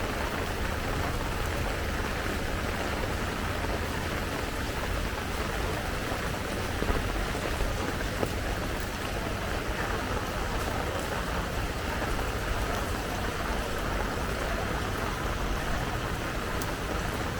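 Steady rain falling, a continuous hiss with scattered light drop ticks.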